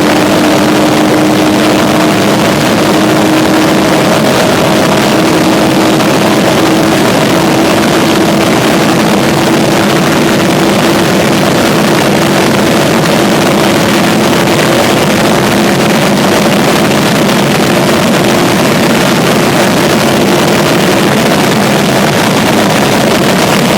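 Mazda KL-ZE 2.5-litre V6 engine pulling hard at high revs in fifth gear, its note climbing slowly and steadily as it nears the rev limiter, under heavy wind and road rush. The steady engine note fades out near the end.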